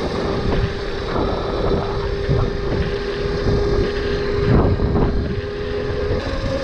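Electric dirt bike's motor whining at a steady pitch while riding, with wind buffeting the microphone. The whine steps up to a higher pitch about six seconds in.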